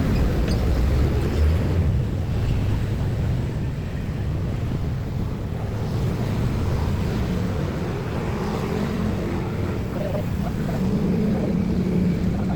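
Steady low rumble of passing vehicles, with wind buffeting the microphone.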